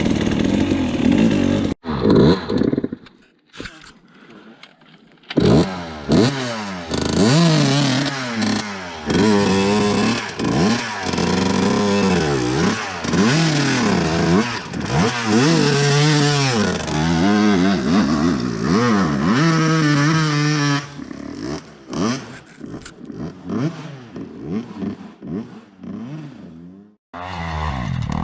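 Dirt bike engine blipped up and down over and over, its pitch rising and falling with each twist of the throttle. It drops away for a few seconds near the start, and near the end it runs quieter with scattered knocks and clatter.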